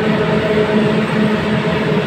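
A pair of EU07 electric locomotives hauling a train of loaded coal wagons passing close by: a loud, steady hum with several held tones over continuous rolling noise.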